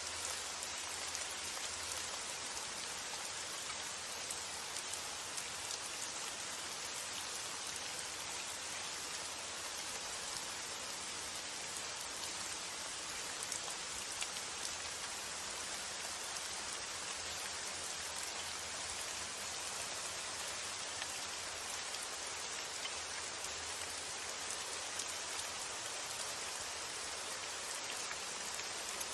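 Steady, even rain falling on a surface, with scattered individual drops ticking through it.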